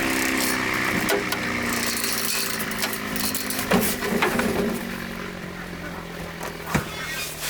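A motor running, its pitch falling slowly at first and then holding steady, with a few sharp knocks.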